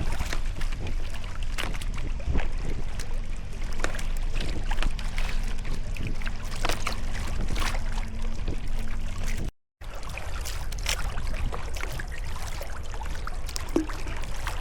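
Sea kayak paddling: the paddle blades dip into the water with small splashes, and water drips and trickles off them, over a steady low rumble. The sound breaks off completely for a moment about two-thirds of the way through.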